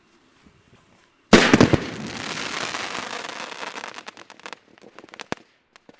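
Pyrotechnic charge going off in a practical truck explosion effect: a sudden blast about a second in, then a few seconds of dense crackling hiss that fades away, with scattered pops and one sharp crack near the end.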